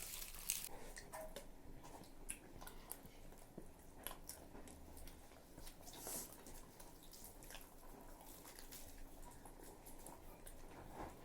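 Quiet eating sounds: faint, scattered clicks and chewing as people eat puri by hand.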